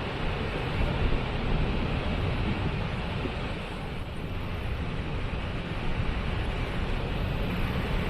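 Waterfall: a steady rush of falling water with a deep rumble underneath.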